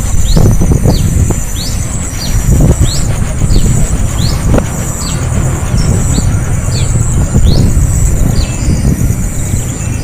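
A young bird chirping over and over, short high notes sliding downward about twice a second, typical of begging for food from its parent. A heavy low rumble runs underneath and is louder than the chirps.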